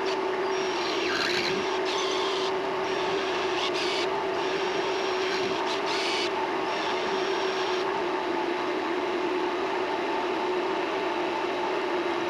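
Vevor MX400 mini lathe running at a steady speed, with short stretches of higher-pitched noise over the first eight seconds while brass hex stock is turned.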